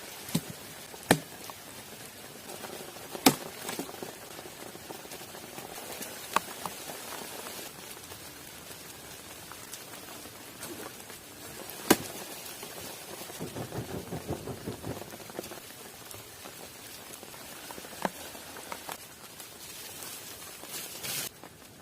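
Steady rain falling in forest, a continuous hiss, with a handful of sharp single pops scattered through it and a short run of quick small ticks about two-thirds of the way in.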